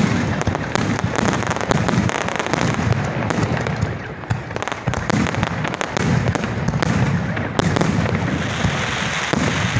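Fireworks display going off close by: a dense, continuous barrage of sharp cracks and pops over a low rumble, many bangs every second.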